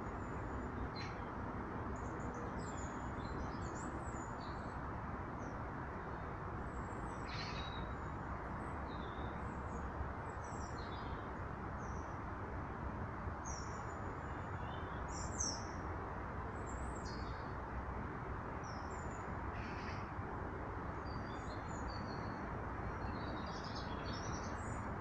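Small birds chirping, many short high calls scattered throughout, over a steady low background hum.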